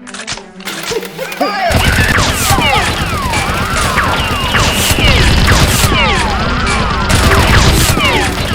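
Battle sound effect of rapid gunfire and booms with many whizzing, falling whistles like bullets flying past, kicking in loud about two seconds in after a quieter start.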